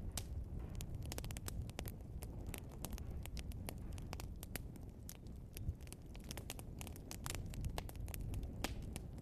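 Wood fire crackling, with many irregular sharp pops and snaps of the burning logs over a low steady rumble of the flames.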